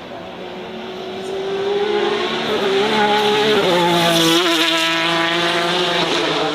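Race car engine accelerating hard, growing louder and rising in pitch, with a gear change about three and a half seconds in, then holding a steady high note.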